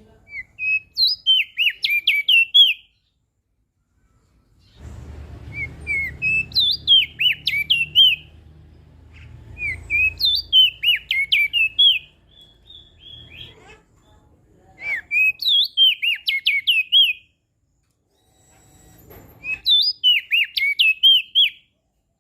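Crested white-eye (opior jambul) singing: five phrases about four to five seconds apart, each a quick run of sharp, sweeping whistled notes. A low rumble sits under the second and third phrases.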